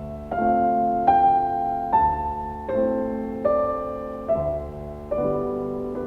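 Background music: slow, gentle piano playing chords about once a second, each note ringing on and fading.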